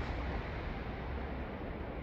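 Trailing rush and rumble of an N700-series Shinkansen that has just passed through the station at high speed, slowly dying away.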